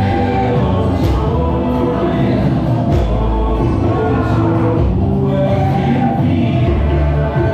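Music with a group of voices singing together in held, choir-like notes, loud and steady.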